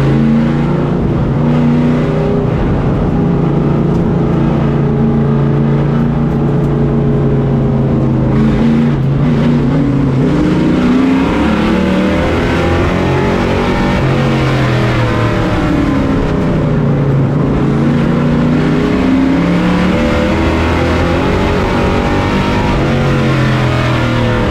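Race truck's engine heard from on board, running at steady revs for the first several seconds, then dropping and climbing again in slow waves as the truck slows for the turns and speeds up on the straights.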